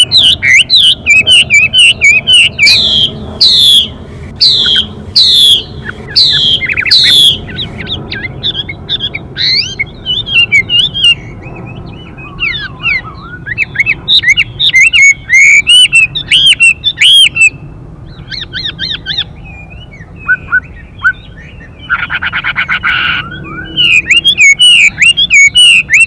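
Chinese hwamei (Garrulax canorus) singing loud, varied whistled phrases, with a run of falling whistles a few seconds in. About 22 seconds in there is a harsh, hissing rasp of about a second, the female's 'xùy' call that excites the male to sing.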